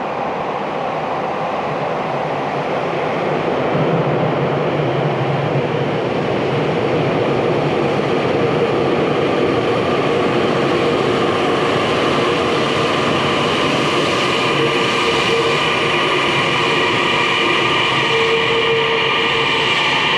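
Tokyu electric commuter train pulling into the station platform. A steady rumble of wheels and motors builds over the first few seconds and then holds. High whining tones come in during the second half, and a whine falls in pitch near the end as the train slows.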